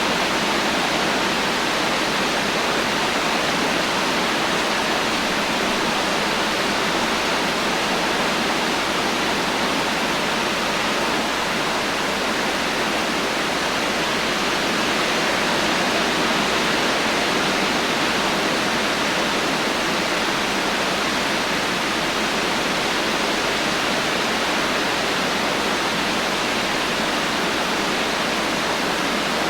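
Heavy rain falling steadily: an even, unbroken hiss with no thunder and no distinct drops standing out.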